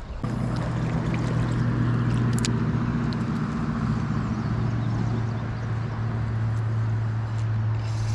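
A steady, low engine-like hum at one constant pitch starts abruptly just after the start and carries on, over a steady rushing noise.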